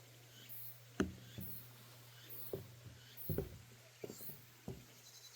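Footsteps on a wooden deck boardwalk at a walking pace, short knocks about every two-thirds of a second from about a second in, over a faint steady low hum.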